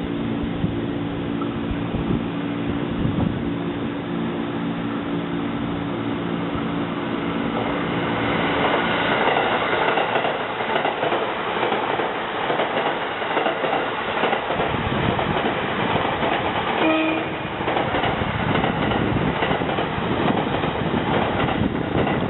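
A JR East 185 series electric train running past. A steady hum with held tones gives way about eight seconds in to a loud rush of running noise and wheel clatter, with a short tone near the end.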